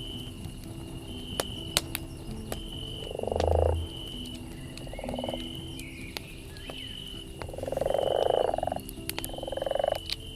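Four loud pulsed croaking calls, the first a little over three seconds in and the last three in the second half, over the scattered sharp pops and crackle of a campfire and a short high note repeating about once a second.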